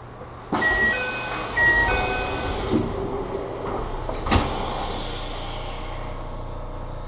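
Commuter train's door chime, two alternating tones played twice over a hiss from the door mechanism, followed about four seconds in by a single sharp knock as the doors reach their stops.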